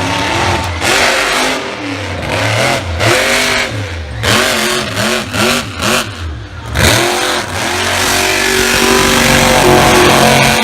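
Monster truck engine revving hard in quick repeated blips, its pitch rising and falling, then held at steady high revs for the last few seconds.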